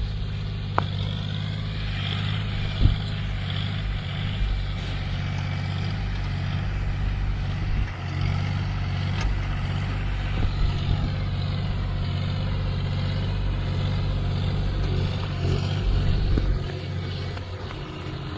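John Deere tractor's diesel engine running steadily while it pulls a trolley, with a few sharp knocks.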